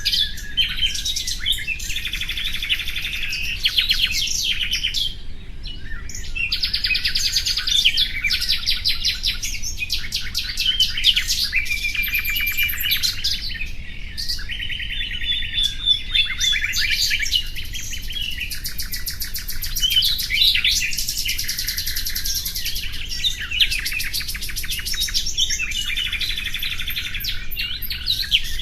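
Nightingale singing: an almost unbroken run of varied phrases made of fast trills, rows of rapidly repeated notes and short whistles, with only brief pauses.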